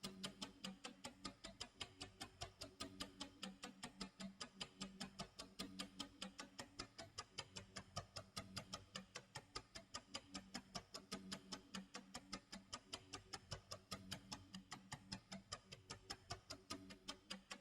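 Faint clock tick-tock sound effect: a fast, even run of ticks, several a second, over a low hum that swells and fades every few seconds.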